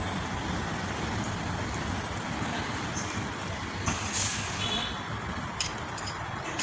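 Steady vehicle noise in the background, with a few light metal clicks as tools work on the engine's valve adjusters.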